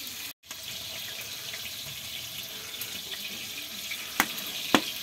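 Onions frying in hot oil in a pot: a steady sizzling hiss, with two sharp knocks a little after four seconds in.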